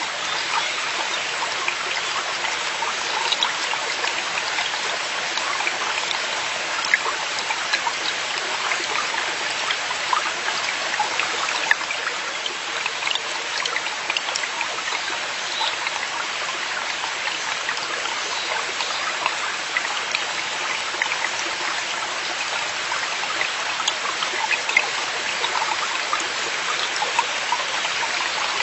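Forest valley stream flowing over rocks: a steady rush of water with many small splashes and trickles.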